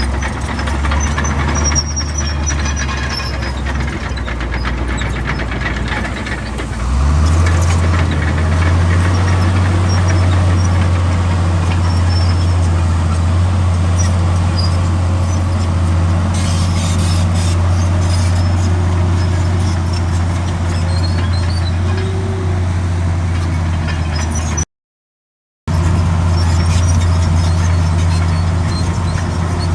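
Heavy diesel earthmoving machinery running steadily, with a low engine drone. About seven seconds in, the engine comes up in revs and load, then holds there. Faint high squeaks come through over it, and the sound cuts out completely for about a second near the end.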